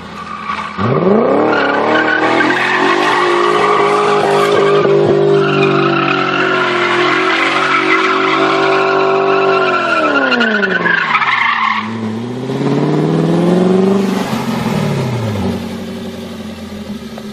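Car engine revved hard and held at high revs for several seconds. It drops about ten seconds in, revs up again briefly, then falls away.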